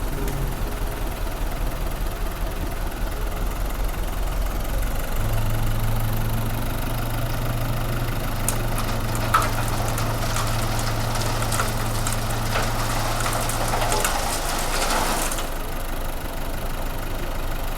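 A vehicle engine running steadily at idle, with a steady low hum joining in about five seconds in. From about the middle, a stretch of sharp clicking and rattling rides over it and stops a couple of seconds before the end.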